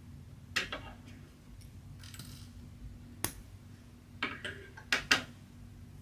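Several short, sharp clicks and snips, typical of handling scissors and other small tools during cross-stitching, with a soft rasp of thread in between. The last two clicks, close together near the end, are the loudest. A faint steady hum lies beneath.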